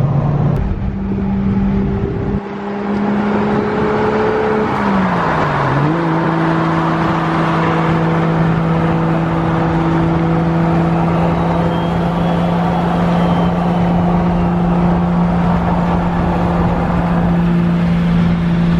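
Car engine droning at steady revs while driving, over road noise; about five seconds in the engine note drops briefly and then settles back to a steady pitch.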